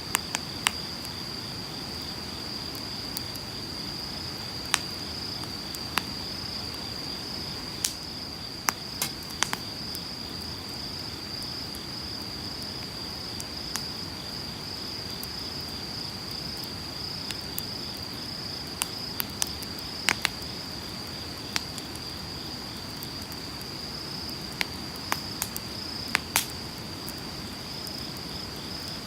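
Wood campfire crackling, with sharp pops and snaps at irregular moments, over the low steady rush of a flowing river and a continuous high-pitched insect trill.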